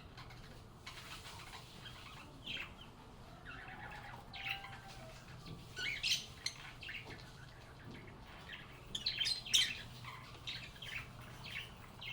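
Lovebirds chirping and calling: many short high chirps, scattered, with louder clusters about six seconds in and again around nine seconds in, over a faint steady low hum.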